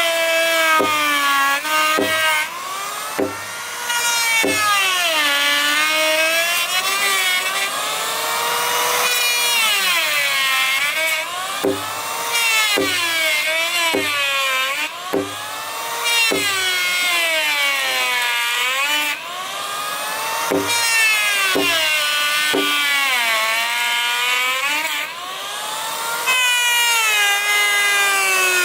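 Power tool cutting wood, its motor pitch repeatedly sagging and recovering as it bites in and frees up. Sharp knocks come in between.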